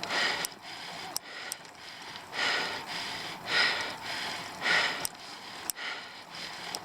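A cyclist's heavy, laboured breathing while grinding up a steep climb: hard exhales coming about once a second, with a few faint clicks between them.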